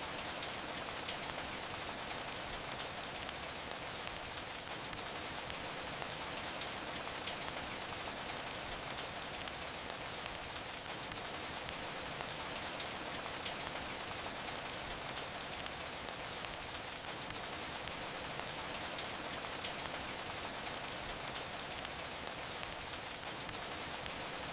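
Steady rain falling, with the scattered sharp pops and crackles of a wood fire over it; a louder pop stands out roughly every six seconds.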